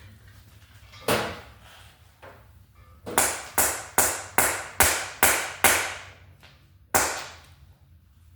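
Hammer striking metal with ringing blows: one, then a quick run of seven at about two or three a second, then one more.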